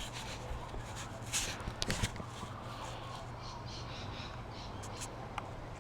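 Faint, scattered clicks and scrapes of hand tools and metal parts being handled during disassembly, over a steady low hum.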